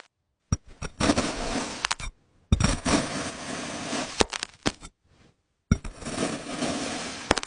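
Knife cutting through a brittle, glassy fruit gel. It comes in three separate takes, each starting with a sharp crack followed by about two seconds of crackling and scraping, and each cut off suddenly.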